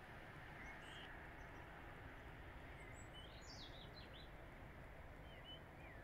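Small birds chirping faintly over steady low background noise: a few short chirps, then a quick cluster of them about three seconds in.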